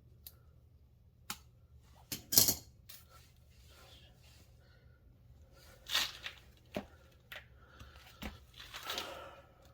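Hand work with tools and parts: a few sharp clicks and short rustling, tearing scrapes, loudest about two seconds in, with two more near the middle and the end.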